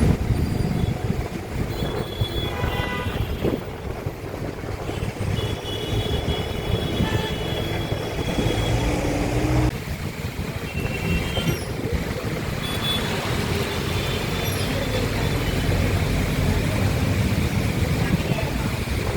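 Road traffic rumbling steadily, with vehicle horns sounding now and then.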